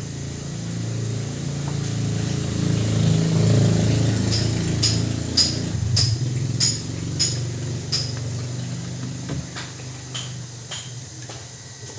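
Metal being tapped with a hammer while a washing machine gearbox is fitted: about a dozen sharp, ringing strikes a little over half a second apart. Under them a low hum swells and then fades away.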